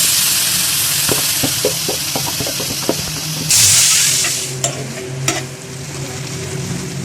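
Food sizzling in hot oil in a pan, with a run of quick taps from a spatula stirring it between about one and three seconds in. The sizzle flares up again about three and a half seconds in, then settles lower.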